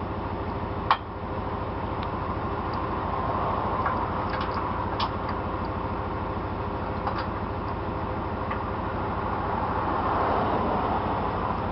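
Diesel tow truck engine idling steadily, with one sharp metallic knock about a second in and a few lighter clicks later.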